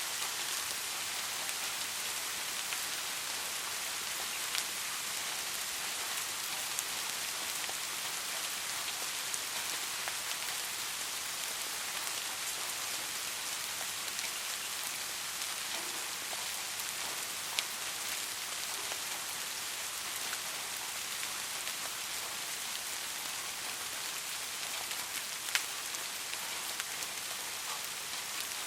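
Steady rain falling, an even hiss with scattered individual drops ticking on a surface now and then.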